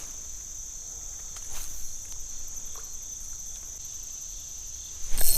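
Insects, likely crickets, trilling steadily on one high pitch in the background. A sudden louder sound cuts in near the end.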